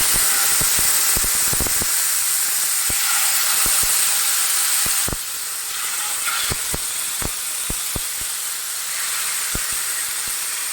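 Yogurt-marinated chicken tikka pieces sizzling in a very hot pan: a steady loud hiss with many small pops and crackles of spitting fat and juice. It eases slightly about halfway through.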